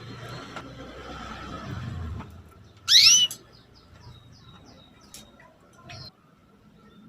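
Female canary calling with short chirps: one loud, quick rising chirp about three seconds in, with fainter quick chirps around it. A low rumble runs under the first two seconds.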